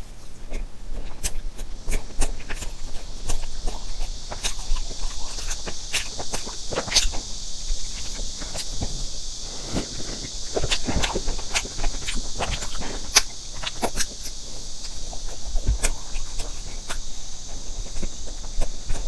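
Close-miked chewing and mouth clicks of eating layered cream sponge cake, with many small wet clicks over a steady high hiss. About ten seconds in come swallowing sounds as drink is taken from a bottle.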